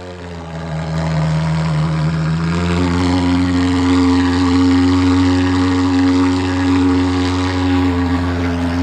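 Thermal fogging machine's engine running with a loud, steady buzzing drone, building up over the first second and then holding; about two and a half seconds in, its upper tone shifts higher.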